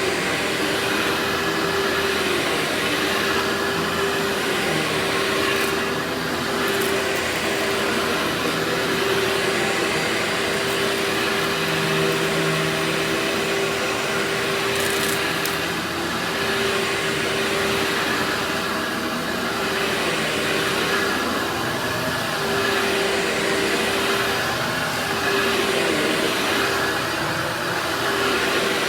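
Workhorse vacuum cleaner running steadily, with a droning tone in its motor noise that drops out and returns every few seconds.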